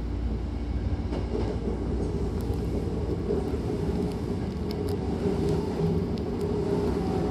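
Hankyu Kobe Line electric commuter train running, heard from inside the car: a steady low rumble of wheels and running gear, with a few faint clicks.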